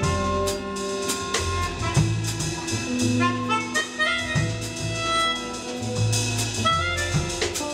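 Live jazz band of electric guitar, electric bass, drum kit and keyboard playing an instrumental passage: a melodic line of held and moving notes over bass and drums, with regular cymbal and drum strikes.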